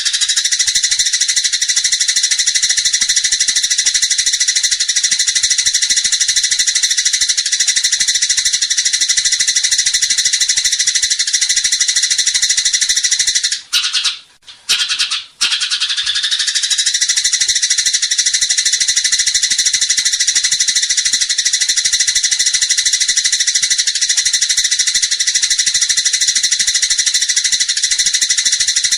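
A small songbird's continuous rapid high-pitched trill, the 'roll' played in bird-training recordings. It breaks off for two short gaps about halfway through, then resumes.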